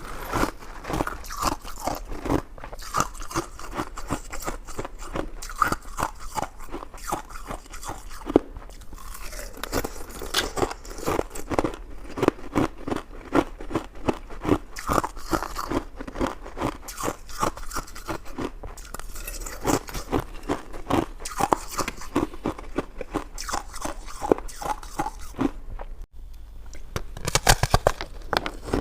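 Close-miked chewing and biting, with dense, irregular crunches.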